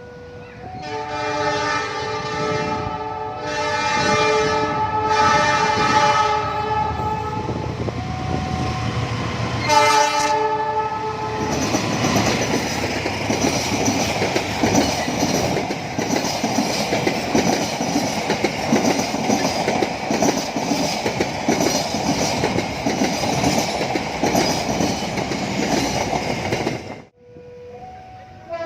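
Locomotive air horn sounding three blasts, then a short fourth blast about ten seconds in. A train then runs past with its wheels clicking steadily over the rail joints, and the sound cuts off suddenly near the end.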